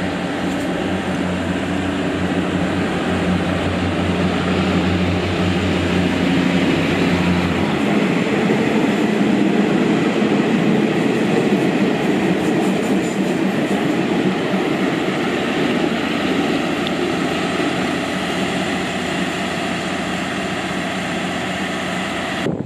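Train running: a steady rumble with a low hum that drops away about eight seconds in.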